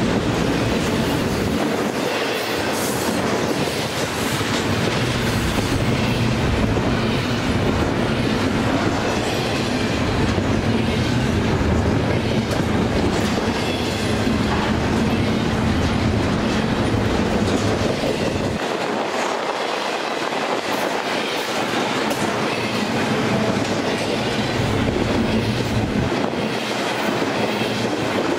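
An intermodal freight train of container well cars rolls past at close range. There is a steady rumble of steel wheels on rail, with repeated clicks as the wheels cross rail joints.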